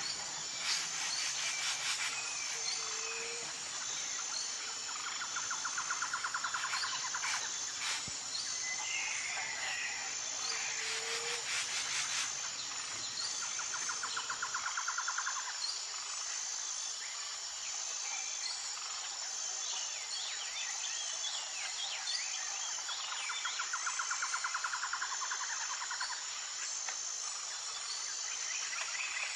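Outdoor insect and bird chorus: a steady high insect drone, with a rapid trill about every eight to nine seconds and scattered short bird chirps.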